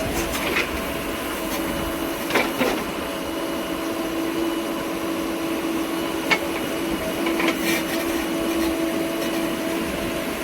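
A steady mechanical hum holding one pitch, with a few short knocks or clacks, the sharpest about six seconds in.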